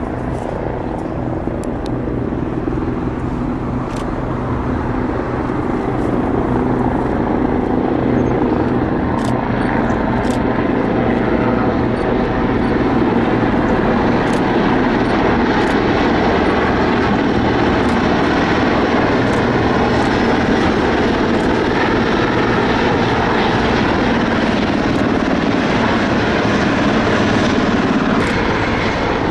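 Aircraft noise, a steady dense drone with low humming tones that grows louder over the first several seconds and then holds.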